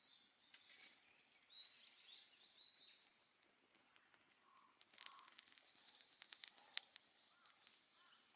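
Faint songbirds chirping and warbling, with a handful of short, sharp clicks over the second half.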